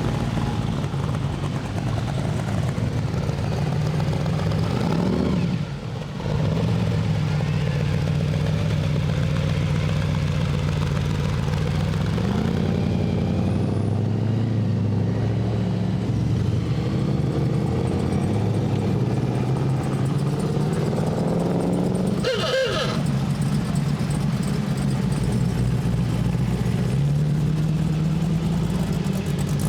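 Car engines running with a low rumble as cars move slowly past, the pitch rising briefly as they pick up speed about twelve seconds in and again near the end. There is a short sharp noise about 22 seconds in.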